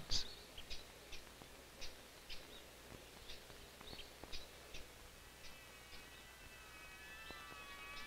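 Faint birds chirping: short, high calls repeated every half second or so. From about two-thirds of the way in, a soft held chord of high tones fades in.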